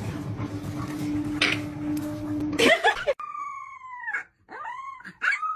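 A dog howling in long, high, held calls that drop in pitch at their ends, over the last two and a half seconds. Before that comes a noisy stretch with a steady low hum that cuts off suddenly.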